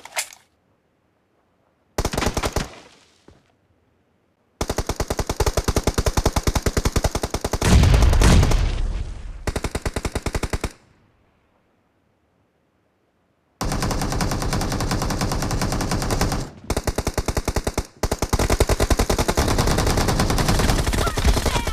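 Automatic gunfire in a shooter video game: several long bursts of rapid shots separated by gaps of complete silence. About eight seconds in, a heavier, deeper blast rises above the firing.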